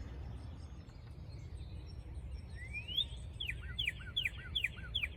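A songbird singing outdoors: one rising note, then a quick series of about six clear down-slurred whistles at roughly three a second. Fainter high chips from other birds sound above a steady low rumble.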